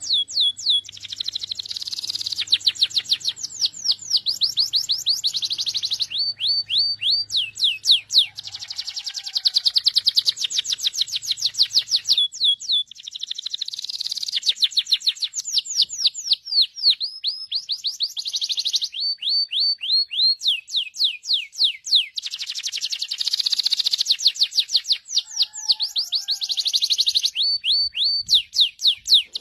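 Domestic canary singing a long song made of rapid trills: runs of quickly repeated high notes, each run giving way to the next, with a few short breaks.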